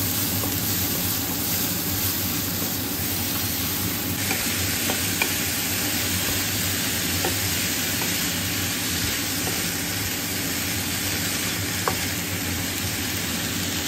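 Diced onion, garlic and red pepper sizzling in oil in a nonstick frying pan while being stirred with a wooden spatula. The sizzle grows stronger about four seconds in, and the spatula gives a couple of light clicks against the pan.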